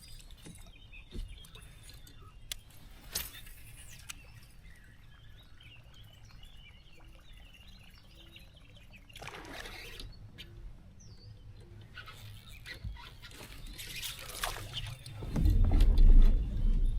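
Faint bird chirps and a few sharp clicks over a quiet outdoor background, two short rushes of noise in the second half, and a loud low rumble about a second and a half before the end.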